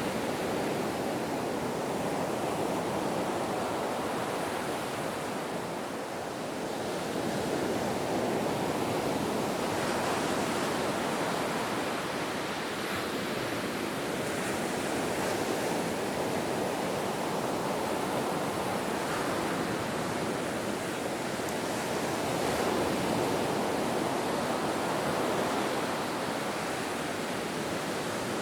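Ocean surf: a continuous wash of waves that swells and eases slowly every several seconds.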